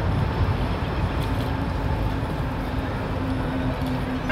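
Low, steady rumble of an approaching train, with a faint steady tone joining about a second and a half in.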